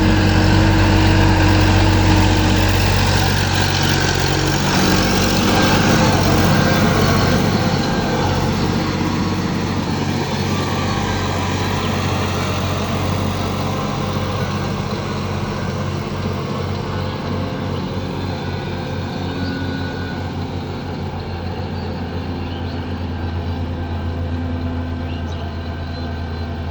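Sonalika tractor's diesel engine running steadily, gradually getting quieter over the stretch.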